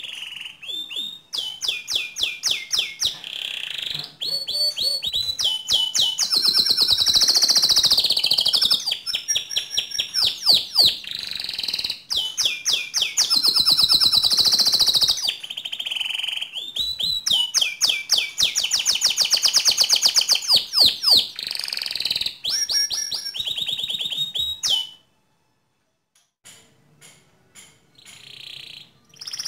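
Domestic canary singing long, fast rolling trills of rapidly repeated high notes, phrase after phrase. It falls silent briefly about 25 seconds in, then starts again near the end.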